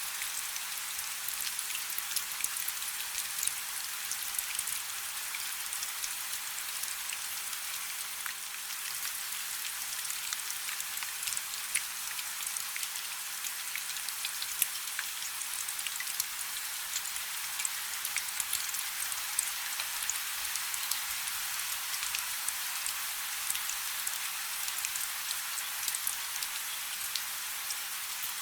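Light rain falling steadily: an even hiss with many fine, crisp drop patters.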